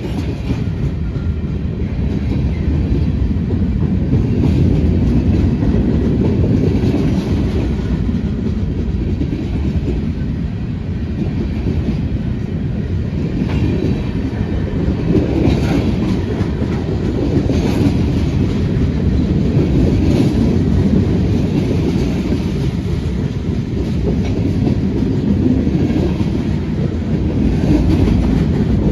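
A train rolling past, its cars making a steady low rumble of wheels on rail with irregular clicks over the joints.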